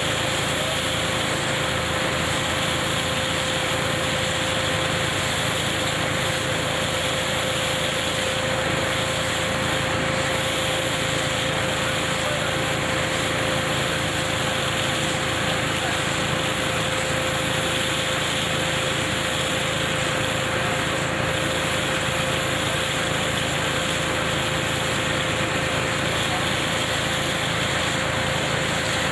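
KF-501 tractor-driven hazelnut picking machine running steadily, a constant mechanical din with a steady whine through it.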